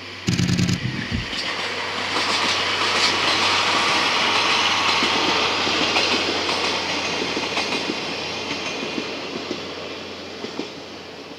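DE10 diesel-hydraulic locomotive passing close by, its engine loud for about the first second, followed by the rolling wheels of three 14-series passenger coaches rumbling past on the rails, fading away toward the end.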